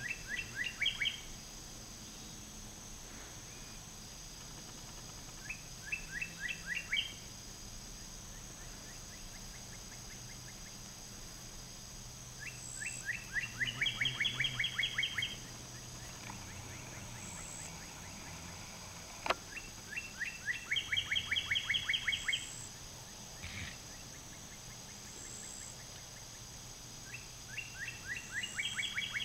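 A songbird singing the same short phrase over and over: a rapid trill of quick down-slurred notes, repeated about every six to seven seconds, five times in all. A single sharp click sounds about two-thirds of the way through.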